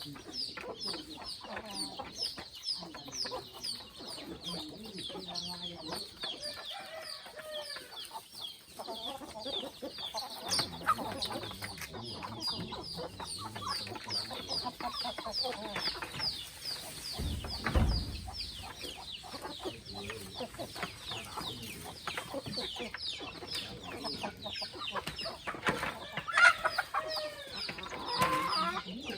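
A flock of free-range chickens clucking and calling, over a constant stream of short, high, falling peeps. There is a low thud about 18 seconds in, and louder calls near the end.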